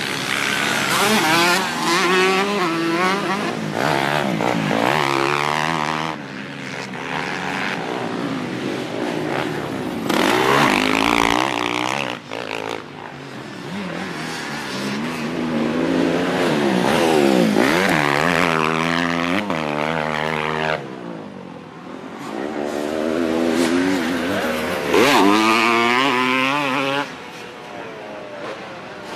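Dirt bike engine revving as it is ridden, its pitch climbing and dropping again and again, growing louder and fainter as the bike comes near and moves away.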